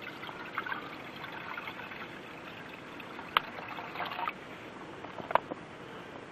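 Camp cookware being handled: light clattering and two sharp clinks, one a little over three seconds in and one about two seconds later, over a steady rushing background.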